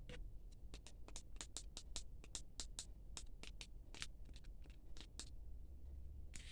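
A quick, irregular run of sharp, crisp clicks and taps, about five a second, from hands handling the plastic stand, headset and packaging, stopping about a second before a short rustle near the end.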